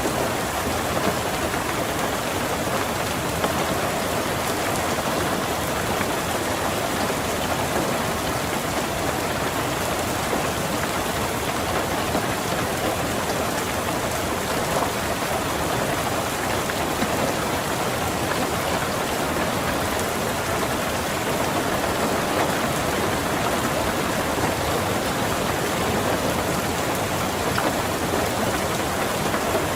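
Steady rain falling on a car's roof and windows, heard from inside the car as an even patter with no thunder.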